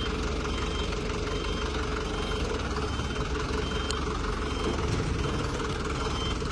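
Heavy truck engine running steadily, with a high-pitched warning beeper sounding about twice a second.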